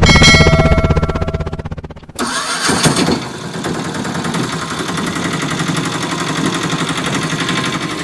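An engine-like sound dies away over about two seconds; then, after a knock, another engine-like sound starts and runs steadily with an even pulse.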